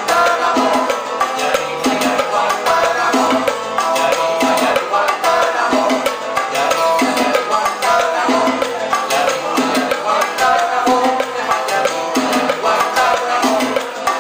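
Live Cuban salsa-style band music with a steady, busy percussion rhythm.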